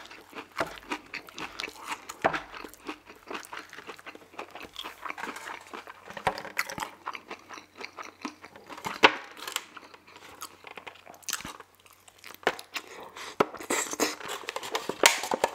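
Close-miked chewing of poutine, wet mouth sounds and bites. A metal fork clicks and scrapes against plastic takeout containers, with several sharp louder clicks in the second half.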